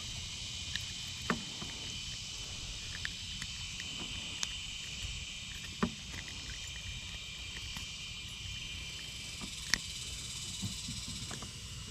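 A steady high hiss of insects, broken by about a dozen light clicks and taps as a just-landed white bass and the fishing gear are handled in a kayak.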